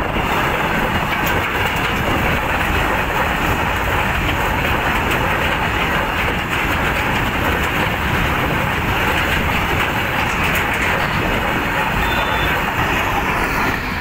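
Freight train of open-top goods wagons rolling past at close range: a steady loud rumble and clatter of steel wheels on the rails, with faint clicks over the rail joints.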